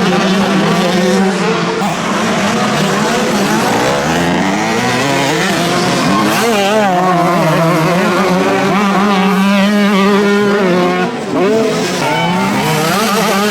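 Several motocross motorcycles racing at once, their engines revving up and falling back over and over as the riders work the throttle through the track.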